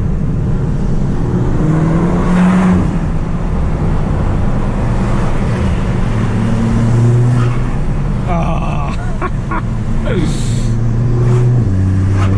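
Audi S3 8P's tuned 2.0 TFSI turbocharged four-cylinder, fitted with a downpipe, running under way on the road. Its pitch climbs about two seconds in, then rises and falls with the throttle and gear changes, with a short rush of noise a little after ten seconds.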